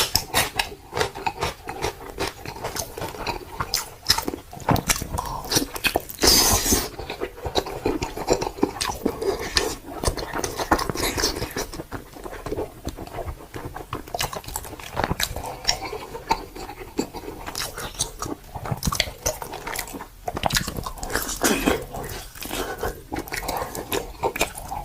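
Close-miked chewing and biting of spicy meat: continual wet, irregular clicks and crunches from the mouth. There is one louder, hissy burst about six seconds in.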